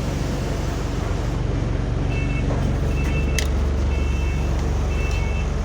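Bus diesel engine idling with a steady low, rattly rumble. From about two seconds in, a two-tone electronic beep repeats about once a second, and there is one sharp click partway through.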